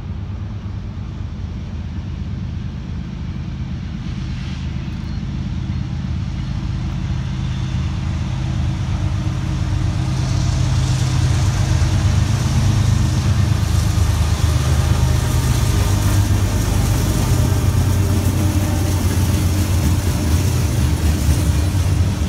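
Freight train with BNSF and Norfolk Southern diesel locomotives in the lead, approaching and passing: a low engine drone grows louder over the first ten seconds or so, then holds as a steady rumble with a higher hiss of wheels on rail as the locomotives and gondola cars go by.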